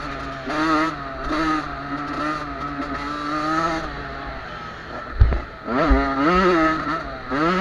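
Youth motocross bikes of 50 to 85 cc running on the track, engines revving up and down as they go through the gears and over the course. There is a low thump about five seconds in.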